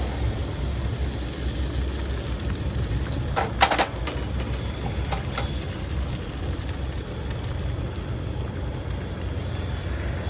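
Eggs cooking in a pan over a low, steady rumble, with a quick run of metal clinks, a utensil against the pan, about three and a half seconds in.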